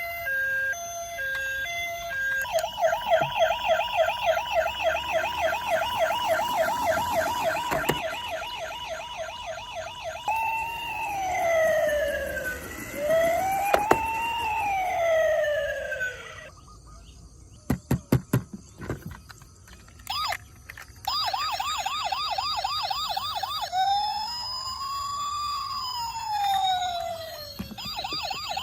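Toy emergency vehicles' electronic sirens cycling through modes: a two-tone hi-lo at first, then a fast warbling yelp, then slow wails that rise and fall. A few short beeps come about two-thirds of the way in, and the yelp and wail return near the end.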